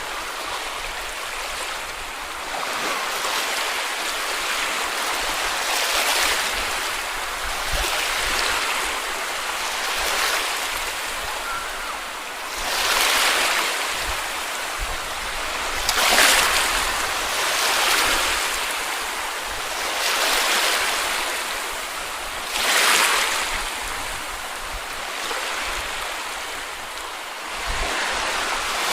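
Small sea waves breaking and washing on a beach: a continuous wash that swells with each wave, about every two to three seconds, two of the surges louder than the rest.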